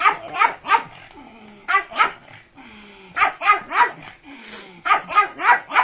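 Dog barking in quick runs of two to four barks, about four runs with short pauses between them.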